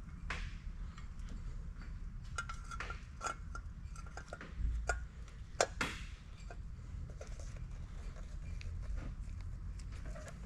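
Light metallic clinks and clicks of small metal parts and hand tools being handled, a few with a short ring, and the loudest knocks come about five to six seconds in. A low steady rumble runs underneath.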